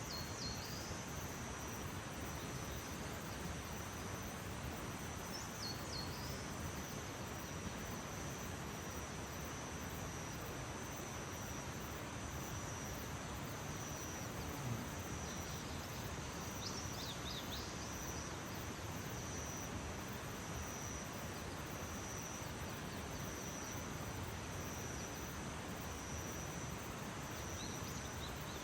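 Outdoor nature ambience: a steady high-pitched insect trill over an even background hiss of outdoor noise, with a few brief bird chirps now and then.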